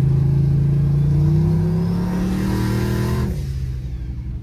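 A road vehicle's engine accelerating, its pitch climbing steadily, then dropping abruptly a little over three seconds in and settling lower.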